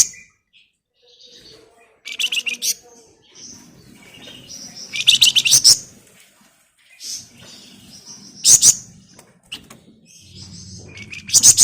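A flamboyan songbird singing in bursts of rapid, high trills, about five bursts a couple of seconds apart, with softer chattering notes in between.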